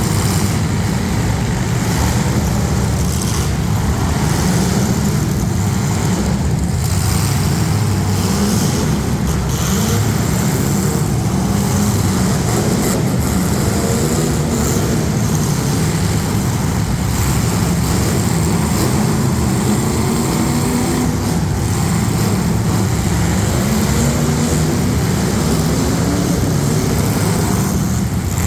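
Engines of several street stock demolition derby cars running loud and steady, a low-pitched engine din throughout.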